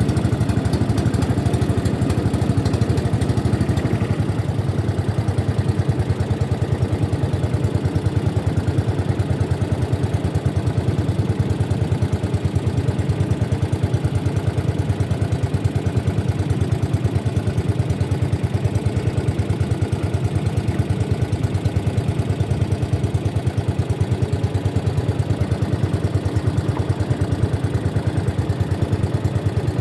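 A boat's engine running steadily at close range, with a fast, even pulse.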